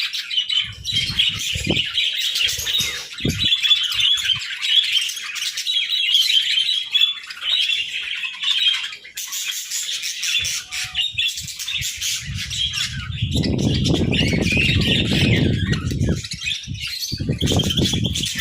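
Budgerigars chattering and chirping continuously, a dense overlapping warble with squawks. A low rumbling noise comes and goes under it, longest and loudest about two-thirds of the way through.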